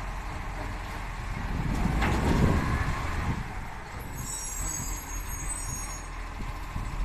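Garbage truck engine running, with a sudden loud burst about two seconds in and a high squeal from about four to six seconds.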